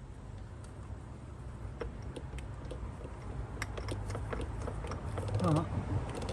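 Scattered metallic clicks and light clatter of a socket and ratchet being worked onto a spark plug deep in a car's engine bay.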